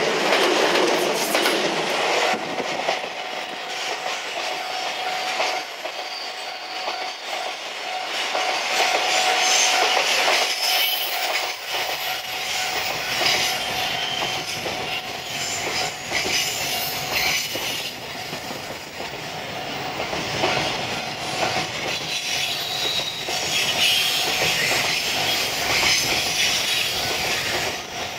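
A passing electric commuter train at first, then a long container freight train rolling slowly past up a steep grade. The wagon wheels knock over the rail joints, with a thin steady squeal from the wheels.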